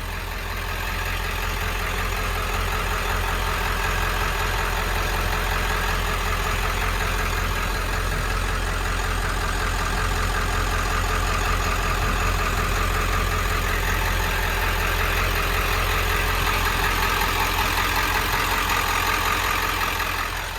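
1995 Ford E350 ambulance's turbo diesel engine idling steadily.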